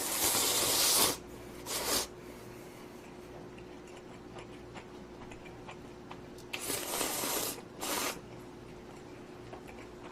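A person slurping instant ramyeon noodles: a long slurp at the start, a short one about two seconds in, then another long slurp about six and a half seconds in followed by a short one, with small mouth sounds between.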